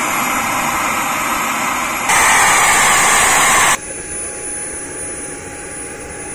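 SW80B model jet turbine running on the ground with a thin high whine over its rush; about two seconds in it turns much louder for under two seconds, then drops back to a lower setting.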